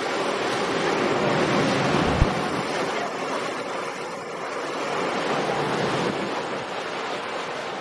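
Steady rush of surf and wind noise, with a single sharp thump about two seconds in.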